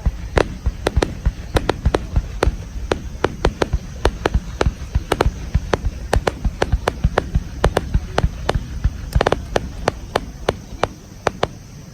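Fireworks going off in a rapid, irregular barrage of sharp bangs and crackles, several a second over a low rumble, thinning out near the end.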